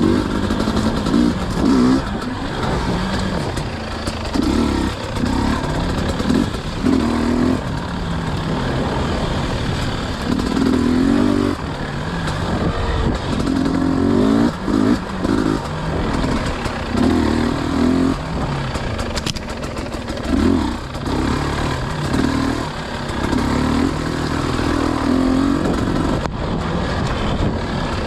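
Dirt bike engine on a trail ride, revving up and easing off again and again as the throttle is worked.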